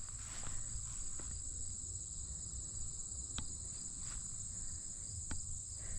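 Late-summer chorus of crickets trilling steadily as one continuous high-pitched drone, with two faint clicks in the second half.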